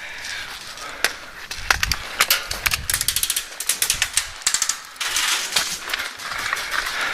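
Airsoft electric guns firing: scattered sharp clicking shots, with a quick string of them about two to three seconds in.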